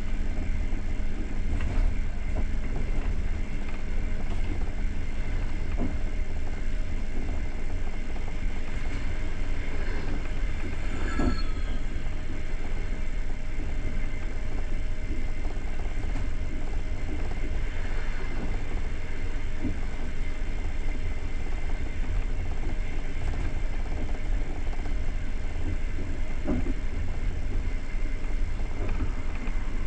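Passenger train carriage running along the track, a steady low rumble of wheels on rails heard from inside the coach. There are a few faint knocks and a brief squeal about a third of the way in.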